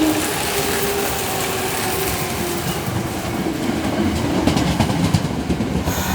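Electric commuter train moving through a station, its motors giving a faint held hum under the running noise; in the second half the wheels clack sharply over rail joints.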